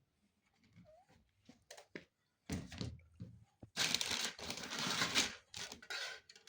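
Handling noises: a few sharp clicks and knocks, then about a second and a half of rustling and scraping, with more light clicks after.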